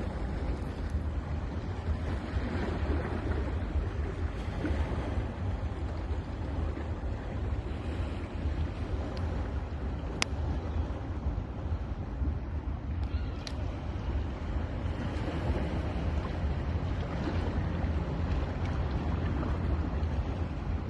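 Ocean waves washing onto a beach in a steady roar of surf, with wind rumbling on the microphone.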